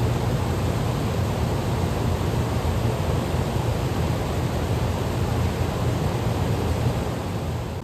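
A 1988 Carrier Round One 38LE central air-conditioner condensing unit running just after its first startup of the season: a steady rush of air from the condenser fan over a low, even hum from the compressor, which the owner believes is a Copeland reciprocating compressor under a sound blanket.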